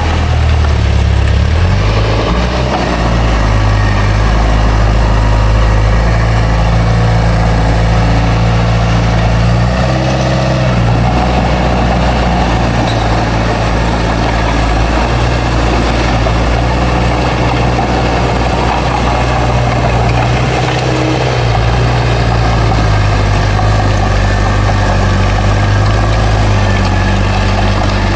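Heavy diesel engine of an earthmoving machine running steadily and loudly. Its engine speed shifts briefly about ten seconds in and again about twenty seconds in.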